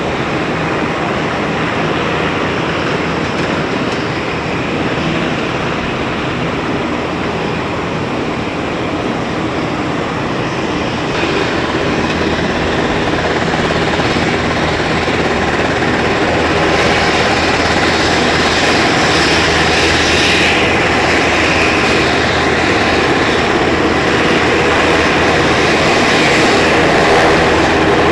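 UH-60M Black Hawk helicopter running, a steady loud rotor and turbine noise that grows louder and fuller partway through.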